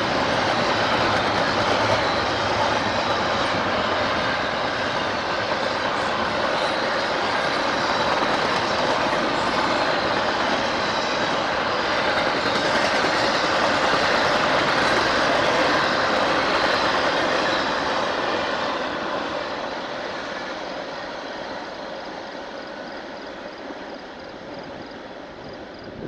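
A train rolling past on the rails: a steady rush of wheel and rail noise that fades over the last several seconds as the train moves away.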